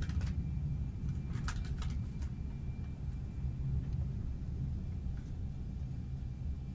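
Moving passenger train heard from inside the carriage: a steady low rumble of the wheels and running gear on the track, with a quick run of sharp clicks about a second and a half in.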